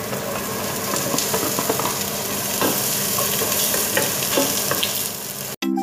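Food sizzling in hot oil in a stainless steel stockpot as ingredients are tipped in and stirred with a wooden spatula, with scattered light scrapes and taps. The sizzle cuts off abruptly near the end.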